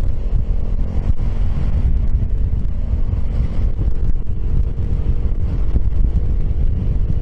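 Wind buffeting the microphone while riding a Piaggio X10 scooter, with the scooter's engine running at a steady note underneath.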